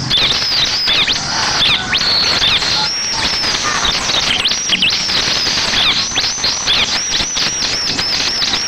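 Ciblek (bar-winged prinia) song: a string of high, sharp, curved notes that speeds up near the end into a fast, even run of about five notes a second. It is played as a lure call to set caged ciblek answering.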